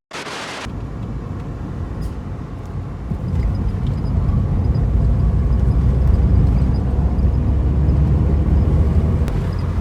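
Car being driven, heard as a steady low rumble of engine and road noise that grows louder about three seconds in. A brief burst of hiss opens it.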